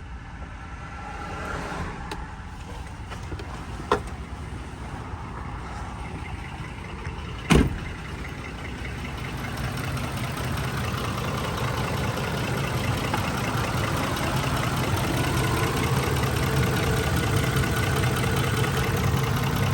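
2004 Ford F-150's 5.4 L V8 idling with a misfire on cylinder 8 (code P0308), growing louder about halfway through. Two sharp knocks about 4 and 7.5 seconds in.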